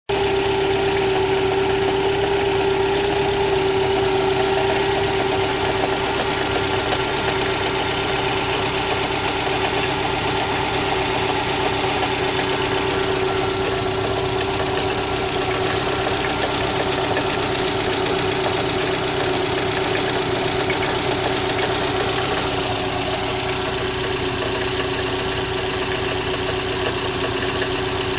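2011 Subaru WRX's turbocharged flat-four idling steadily from a cold start, with a knocking noise that comes only in cold weather and is gone once the engine reaches normal temperature. A steady whine sits over the idle.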